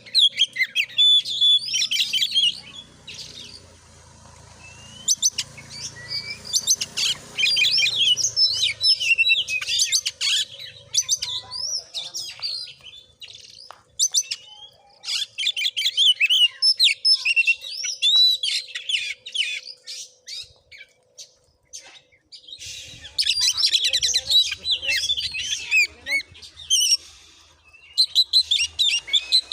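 Oriental magpie-robin (kacer) singing in long bouts of rapid, varied chirps and whistles, broken by a few short pauses.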